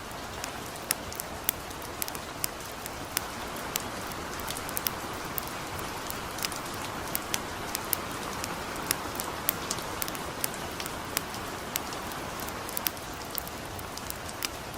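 Steady patter of light rain, with frequent small sharp pops and ticks, the crackle of a campfire, scattered irregularly through it.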